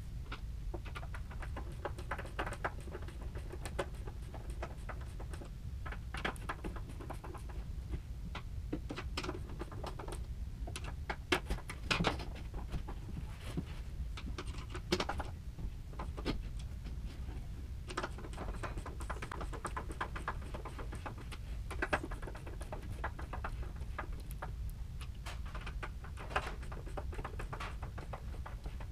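Irregular light clicks and knocks, a few a second at times and louder around the middle, over a steady low hum.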